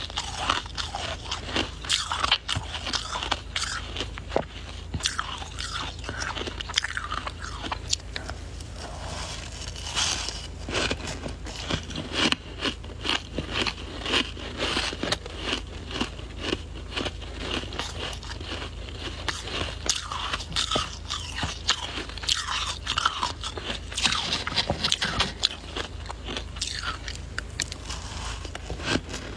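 Close-miked biting and chewing of soft white ice (freezer frost): a dense, irregular run of crisp crunches and crackles with no pauses.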